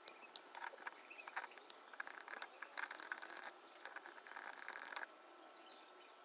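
Light clicks and scratchy rattling of hand work on a car door card, stopping abruptly about five seconds in.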